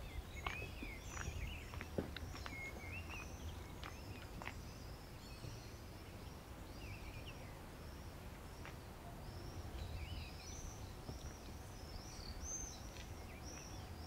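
Small birds chirping over and over in short, high calls above a low outdoor rumble, with a few sharp taps in the first few seconds.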